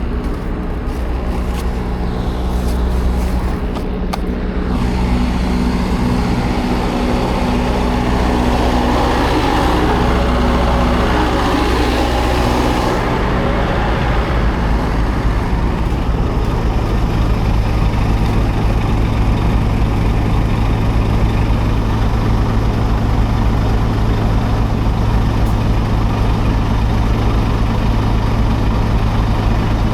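Scania R480 truck's inline-six diesel engine running steadily, heard from the cab. A rushing noise swells and fades over the first half, and about 13 seconds in the engine's note changes and settles into a steady lower hum.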